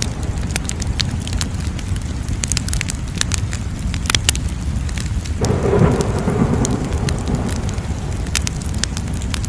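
Wood fire crackling: frequent sharp pops and snaps over a steady low rumble of flames, with a sudden swell of flame noise about five seconds in.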